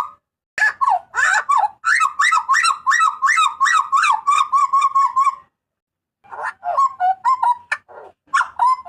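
Butcherbird (jagal papua) giving loud calls: a fast string of sharp, repeated notes, about four a second, then a short pause and a shorter, broken phrase near the end.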